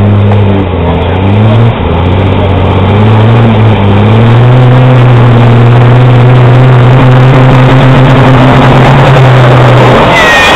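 Street semi tractor's diesel engine pulling under heavy load. Its revs climb over the first few seconds, hold steady and loud for about six seconds, then drop off abruptly near the end.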